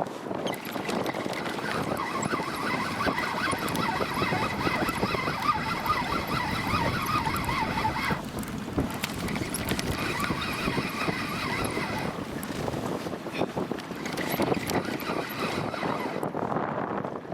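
Spinning reel whirring in three bursts while a hooked pike is played. The longest burst stops suddenly about eight seconds in. Wind rushes over the microphone throughout.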